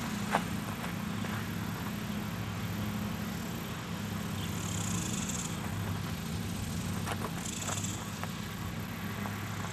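Outdoor ambience: a steady low hum under an even background hiss, with a few faint knocks and two brief high-pitched hisses partway through.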